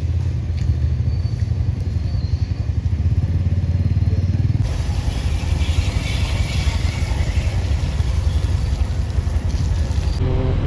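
A small motor vehicle's engine running steadily with a rapid low pulse. About halfway through, a higher hiss abruptly joins it, then cuts off near the end.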